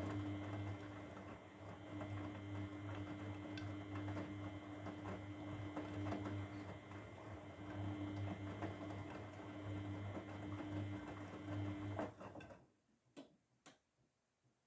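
Grundig washing machine running with a steady mechanical hum and light clicking, which cuts off abruptly near the end, leaving only a few faint clicks.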